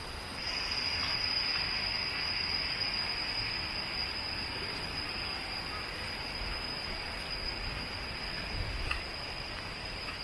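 Insects calling in a steady, high-pitched drone, over a faint low rumble.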